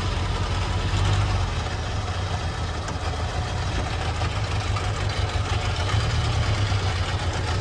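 Truck engine running steadily at low revs while the truck creeps along in reverse, a constant low rumble.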